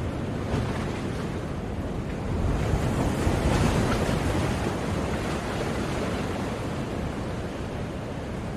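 Ocean waves breaking on a shore: a steady wash of surf, with one wave swelling louder a few seconds in and then receding.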